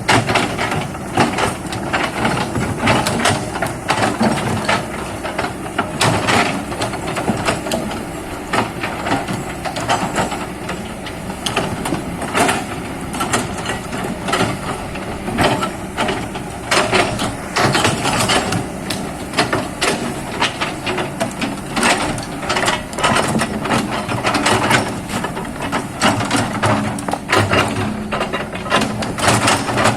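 Excavator engine running while it works, with frequent knocks, cracks and crunching scattered through the sound.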